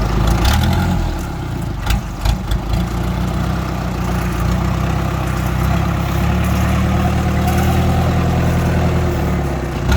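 Engine of a homemade loader built from an old truck running steadily, with a few sharp knocks about two seconds in.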